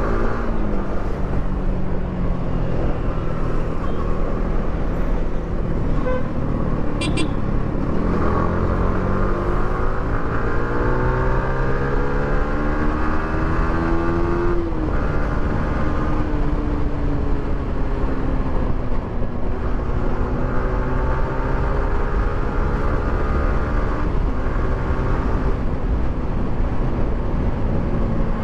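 Yamaha R15 V3's single-cylinder engine with its stock exhaust, running while riding, its pitch climbing and falling with throttle and gear changes, with one sharp drop about halfway through.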